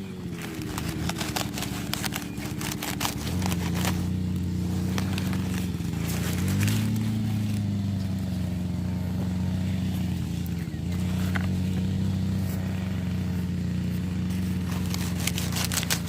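An engine running steadily, its pitch dropping at the start and rising briefly about six and a half seconds in, with scattered clicks and crackles over it.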